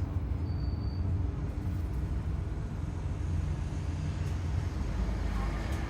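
Scania N230UD double-decker bus with its 9.3-litre Scania DC9 diesel running on the road: a steady low rumble with a faint drone running through it. This is the strange howling noise that the uploader thinks sounds like a dodgy bearing or worn-out tyres.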